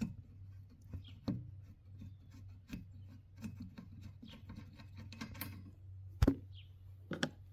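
Hand tools and loose metal parts being handled: irregular light clicks and taps, with one sharper knock about six seconds in and two more near the end.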